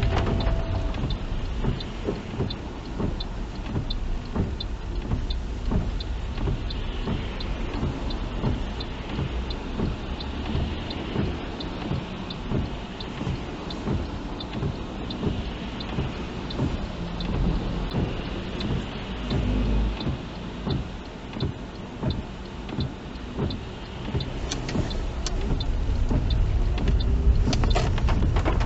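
Inside a car driving in the rain: engine and tyre rumble with rain noise. Over it, the turn indicator ticks steadily about one and a half times a second, stopping about four seconds from the end.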